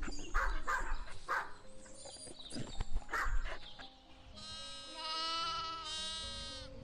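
A dog barks a few short times, then about four seconds in lambs bleat: one long wavering bleat followed straight away by a second.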